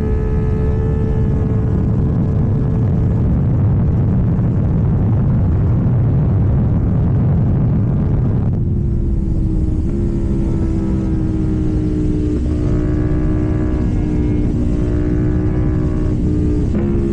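KTM Duke 790 parallel-twin engine running through an Arrow full exhaust system, with wind noise at riding speed. The engine holds steady revs under a heavy low rumble. After an abrupt change about halfway, it holds a steady tone that slowly drops in pitch, with a few small breaks.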